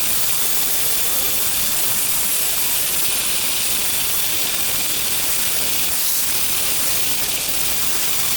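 A steady, even hiss, strongest in the high range, holding one level with no breaks.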